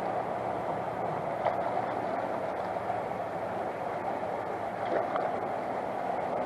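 Stream water rushing steadily, with a couple of faint knocks.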